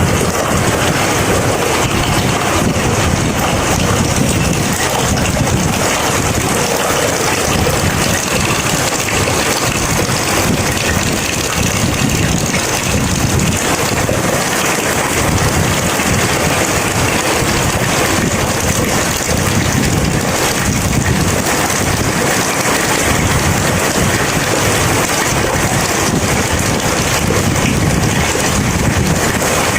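Heavy rain falling steadily during a thunderstorm, an even, unbroken downpour.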